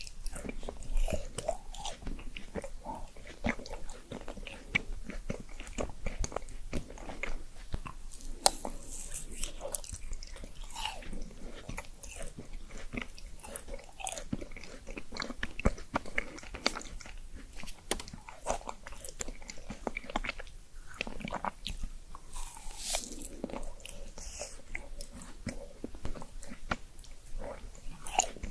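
Close-miked eating sounds: a person biting and chewing food with wet mouth clicks and some crunching, irregular and continuous.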